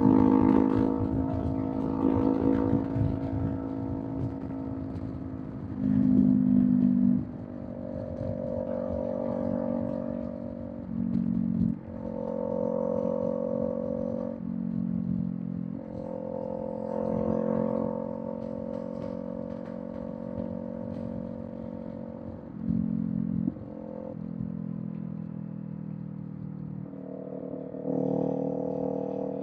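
Kawasaki Z400's parallel-twin engine through a Villain M1 aftermarket exhaust, running on the move. Its note steps up and down in pitch many times as the throttle and gears change, with brief louder surges about six, eleven and twenty-three seconds in.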